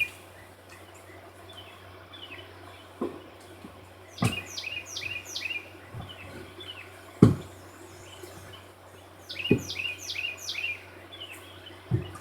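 A songbird singing two quick runs of descending chirps, one about four seconds in and one near ten seconds. Between them come several sharp knocks, the loudest about seven seconds in.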